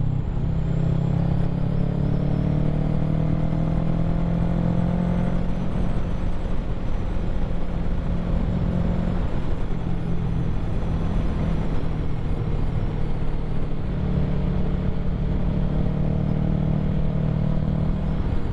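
Kawasaki Ninja 650's parallel-twin engine running at road speed under a rush of wind, its pitch climbing slowly as it accelerates, twice.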